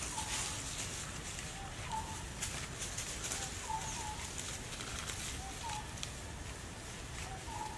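A bird calling in the background: short paired whistled notes, repeated about every couple of seconds. Scattered light rustles and clicks come from monkeys moving over dry leaves.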